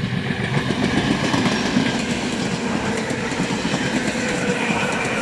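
Electric train passing close by: a loud, steady rumble of wheels on rails with a clickety-clack over the rail joints.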